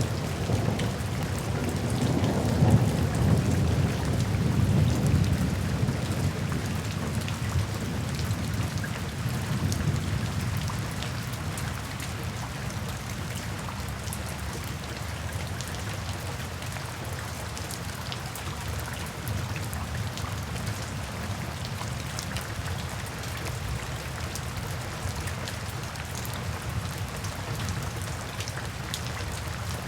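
Steady rain falling, with scattered drop ticks, and a long low rumble of thunder in the first several seconds that slowly fades out.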